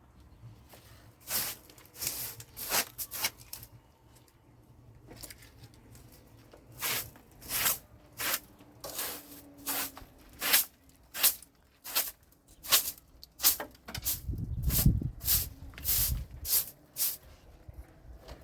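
Plastic bags being handled, rustling and crackling in a run of short strokes, one or two a second. Low bumping noise joins in during the last few seconds.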